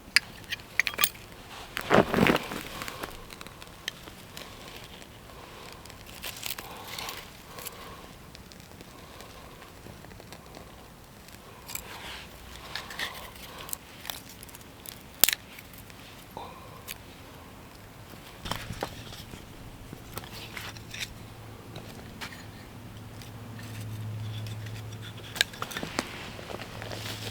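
Dry kindling crackling and snapping as a small campfire is being lit, in scattered sharp clicks and pops.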